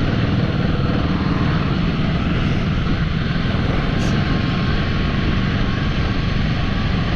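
Royal Enfield motorcycle running steadily while being ridden: a continuous engine drone mixed with rushing noise, and a single short click about four seconds in.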